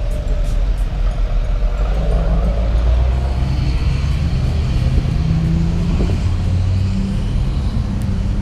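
Vehicle engine running with a heavy low rumble, its pitch rising briefly about two seconds in.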